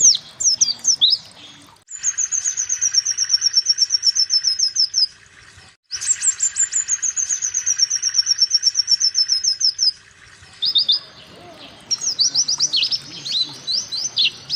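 White-eye (pleci) song: a few quick, high, downslurred chirps, then two long, very fast trills of about three to four seconds each whose notes slide slowly lower in pitch, followed by bursts of quick chirps near the end.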